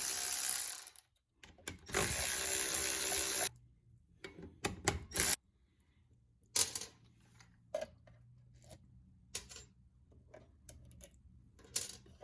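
Handheld power tool running in two bursts of about two seconds each, working on a stuck winch fastener, followed by scattered light clicks and knocks of metal tools being handled.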